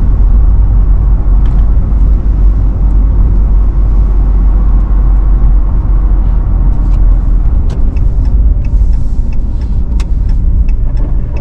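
A car driving, heard from inside the cabin: a steady low rumble of engine and tyre noise, with a few faint clicks in the second half.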